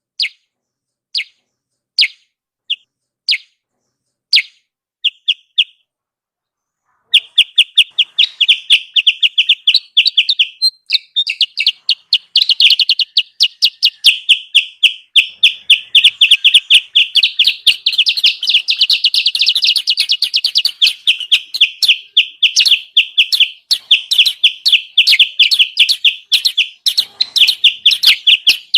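Kutilang sutra bird calls played as a lure: a few single chirps about a second apart, a short silence, then from about seven seconds a fast, unbroken string of high chirps.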